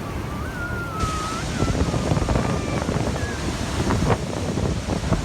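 Niagara Falls' falling water and spray rushing, with wind buffeting the microphone; the rush grows louder and brighter about a second in. A faint high wavering tone sounds in the first second and a half.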